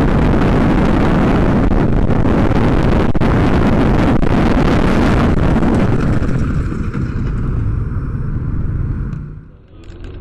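Loud rushing road and wind noise from a moving vehicle, easing about six seconds in to a quieter steady hum, then cutting off near the end.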